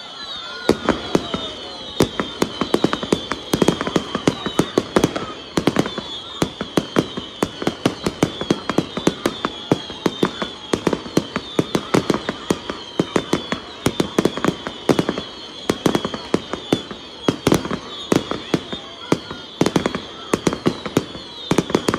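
Fireworks show: aerial shells bursting in a rapid, continuous barrage of sharp bangs and pops, several a second. The barrage sets in about half a second in and does not let up.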